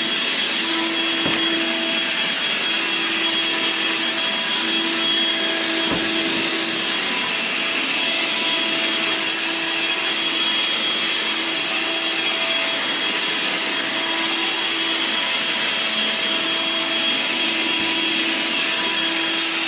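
Vacuum cleaner running steadily: a motor whine holding one pitch over rushing air, with a lower hum that comes and goes. A couple of light knocks are heard early in the run.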